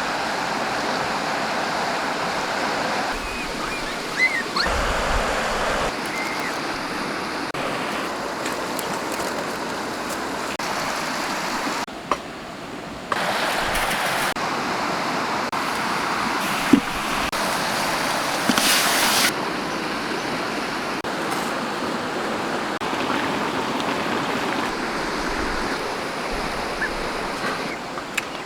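Steady rushing of a flowing stream, with its level and tone changing abruptly every few seconds.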